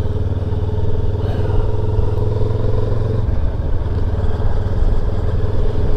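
Motorcycle engine running steadily on the move, a constant low rumble with a steady hum.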